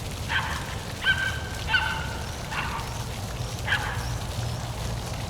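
A bird giving five short, honking calls at uneven intervals, over the steady low rumble of a park waterfall.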